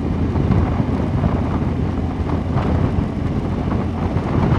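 Motorcycle running at riding speed, with wind buffeting the helmet microphone and rough tyre noise from a gravel road surface.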